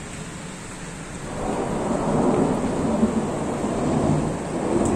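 Heavy rain falling in a city during a storm. A low rolling rumble swells in about a second and a half in and keeps going.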